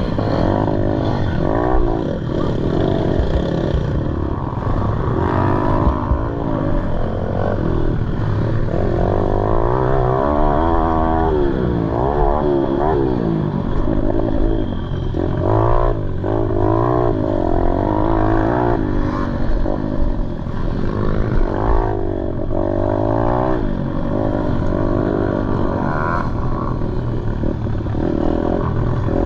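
Pit bike engine revving hard and easing off again and again as the bike is ridden through a race lap, its pitch rising and falling with each burst of throttle, over low rumbling noise.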